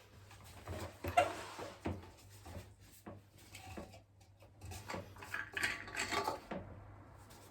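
Plastic parts of an electric fan being handled during disassembly: an irregular series of clicks, knocks and scrapes, the sharpest knock about a second in and a busier stretch of scraping and clattering between about five and six and a half seconds.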